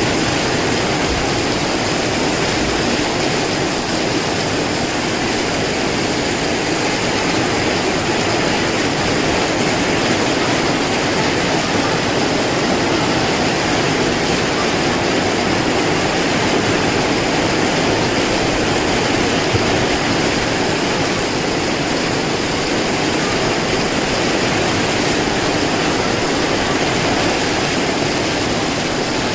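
Heavy rain pouring down in strong wind, a loud, steady rushing noise.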